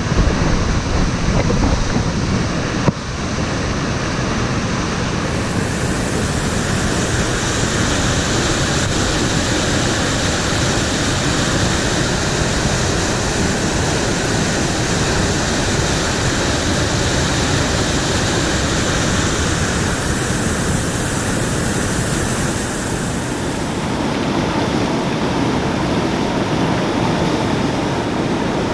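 Crabtree Creek in flood, running at about 1,000 cubic feet per second: a steady rush of water. A single knock sounds about three seconds in.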